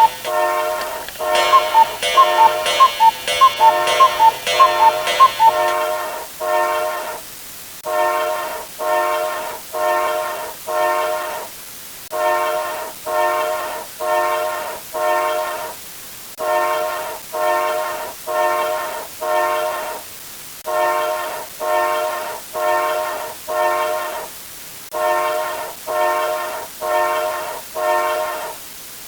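A horn sound effect, like a multi-chime train horn, sounding short blasts a little under a second apart in runs of three to five with brief pauses between. For the first several seconds a higher ringing with quick ticks plays over the blasts, stopping about six seconds in.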